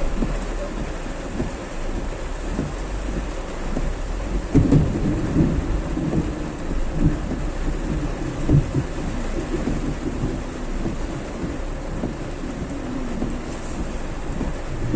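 Heavy rain pouring steadily, with irregular low rumbles, most of them from about four to nine seconds in.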